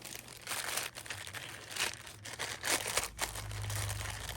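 Paper and packaging rustling and crinkling as craft scraps are rummaged through by hand. A low steady hum comes in about three seconds in.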